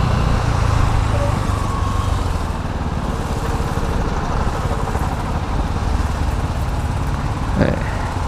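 Engine noise in stopped road traffic: vehicle engines running steadily at a red light. A brief sharp sound comes near the end.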